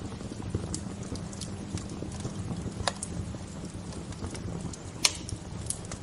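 Wood bonfire crackling, with irregular small snaps and one loud pop about five seconds in, over a steady low rumble.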